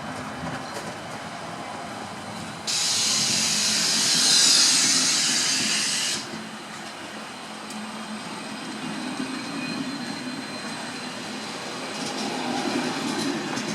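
Train running on the rails, a steady low rumble, with a loud hiss that starts abruptly about three seconds in and cuts off about three seconds later.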